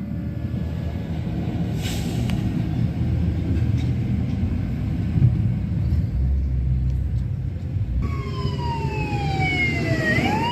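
A fire engine rumbling loudly as it goes by. Its siren comes back in the last couple of seconds, falling in pitch and then sweeping sharply up.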